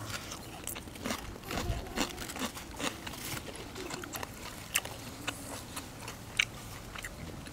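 Close-miked chewing of soft squid, with scattered short wet mouth clicks and smacks at irregular intervals.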